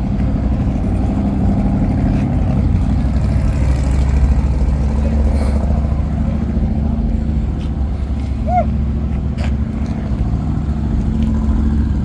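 A vehicle engine running steadily at a constant speed, with no revving.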